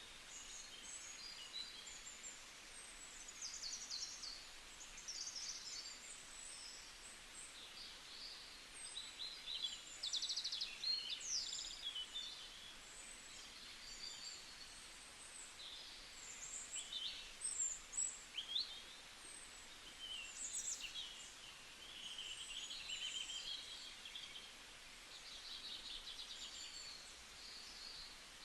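A chorus of several birds chirping and singing over one another, with short calls, trills and quick rising and falling notes coming thick and fast over a faint steady hiss.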